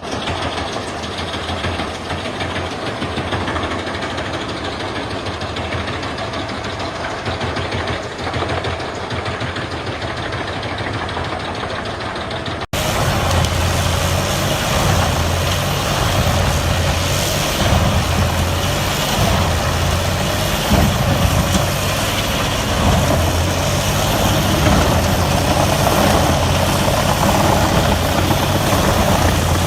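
Wood chipper engine running steadily as the machine shreds logs. About thirteen seconds in, the sound cuts abruptly to a louder, heavier machine drone with a strong low hum.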